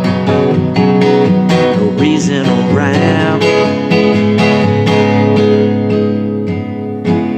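Instrumental outro of a country song on acoustic guitar: chords are plucked and strummed in a steady rhythm over held notes. A last stroke about seven seconds in is left to ring.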